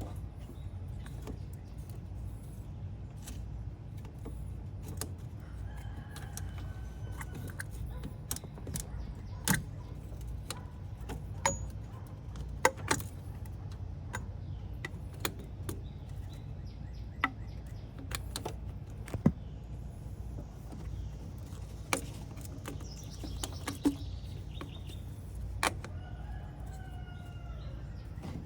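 Scattered sharp metallic clicks and clinks of hand tools and parts during reassembly on the engine, about a dozen, over a steady low rumble; a bird chirps a few times, about six seconds in and near the end.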